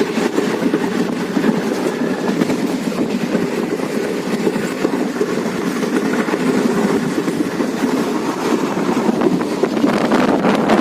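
Passenger train coach running along the track, heard on board: a steady running noise of wheels and coach.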